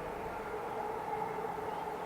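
Yamanote Line E235-series electric train running through the station area: a steady low rumble with two held tones.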